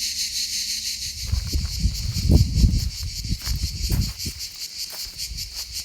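Insects chirping in a steady, rapid high-pitched pulsing. A low rumble swells and fades through the middle of it and is the loudest part.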